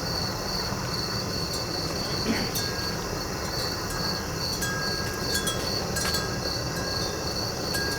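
Crickets chirping in a steady, evenly pulsing high trill over the low, steady rush of the kiln's weed-burner torch. From about halfway through come a few light metallic clinks, each ringing briefly.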